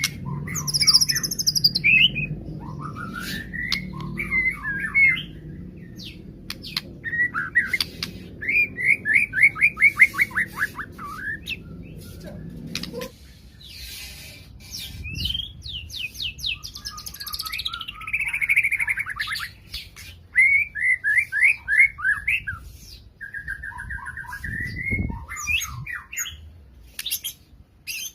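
White-rumped shama (murai batu) singing continuously in a varied, loud song of whistles, fast trills and rapid runs of repeated notes, with mimicry of cililin, canary and lovebird calls worked in. A low background hum underlies the first half and stops abruptly about halfway through.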